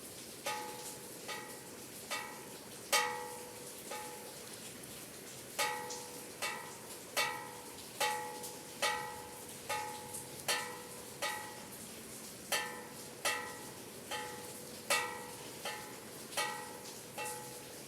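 Bells of a small belfry being rung: a quick, uneven run of strikes, each ringing and fading. At least two bells of different pitch take turns, the lower one sounding on some strikes and a higher one on others.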